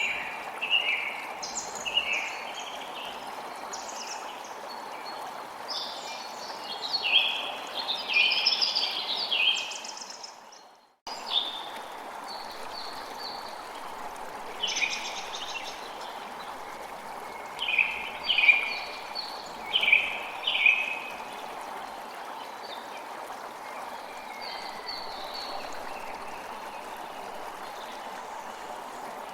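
Songbirds chirping and singing in short bursts over a steady rush of flowing water. The whole sound fades out about ten seconds in and cuts straight back in a moment later.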